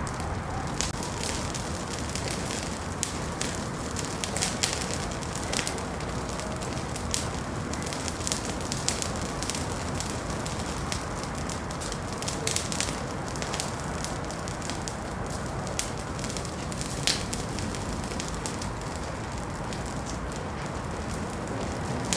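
Wood fire crackling in a fireplace: scattered sharp pops and snaps over a steady soft hiss of burning.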